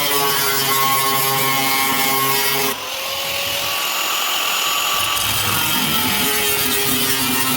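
Electric power tool motor whining under load, its pitch shifting slightly; the sound dips and changes character about three seconds in, then runs on steadily.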